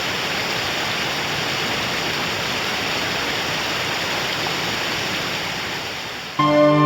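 Flowing water rushing steadily, easing off slightly toward the end. Music with sustained pitched notes starts abruptly near the end.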